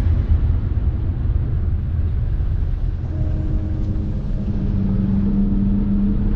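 Boat motor running under way, a steady low rumble, with a steady hum coming in about halfway through.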